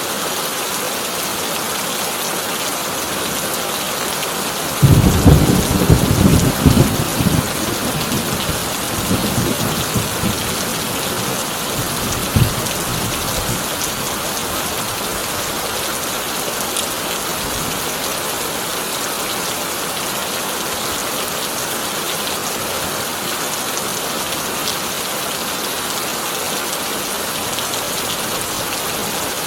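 Heavy rain drumming steadily on a corrugated tin roof. About five seconds in, a loud clap of thunder breaks out and rumbles for several seconds, with a further crack a few seconds later, before the rain carries on alone.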